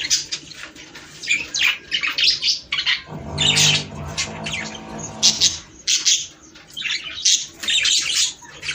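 Budgerigars chattering: a flock giving rapid, overlapping chirps and squawks. A low hum sounds under the chirping for about two seconds, starting about three seconds in.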